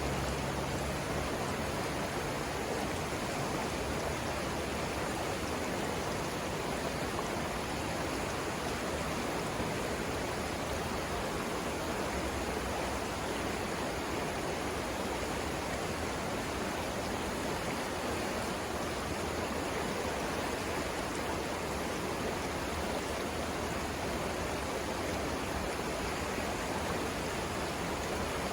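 Savannah River rapids: fast water rushing over rocks with a steady, unbroken sound.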